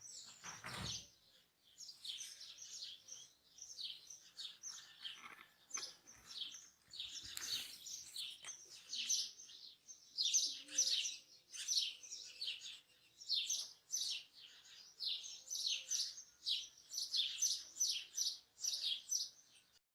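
Birds chirping and singing in a dense, overlapping run of short, high chirps that carries on without a break.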